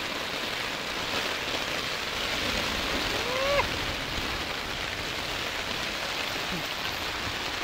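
Steady rain falling on a tent's flysheet, heard from inside the tent. A short rising voice-like sound comes about three seconds in.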